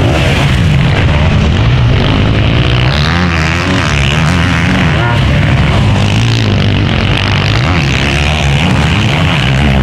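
Several 500cc motocross bike engines revving hard, pitch rising and falling as they accelerate and shift, mixed with music.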